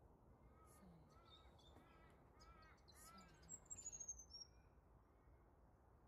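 Faint bird calls: a run of about six short, arched, harsh notes roughly half a second apart, then a high, thin whistle gliding down in pitch around the middle.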